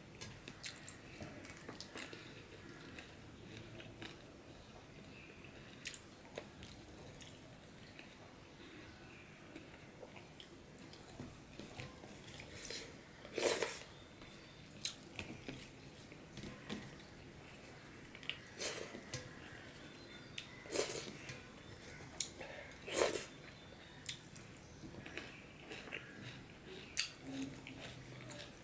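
Close-miked chewing of rice and curry eaten by hand: soft wet mouth sounds and clicks, with fingers working the rice on a steel plate. A few louder sharp smacks come now and then, the loudest about halfway through.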